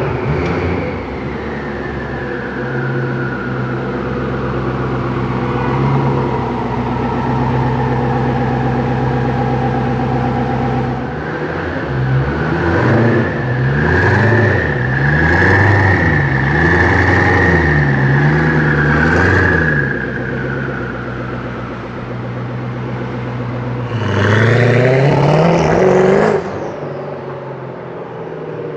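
Koenigsegg supercar's V8 engine idling, then revved up and down several times in quick succession. Later a single sharp rev climbs and drops off after about two seconds.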